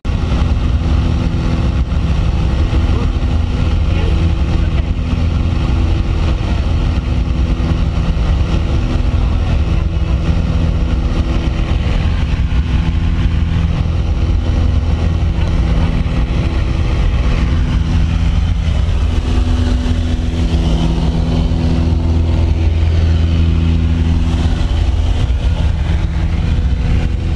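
Light aircraft's propeller engine running steadily at climb power, a low pitched drone that swells and eases slightly over time.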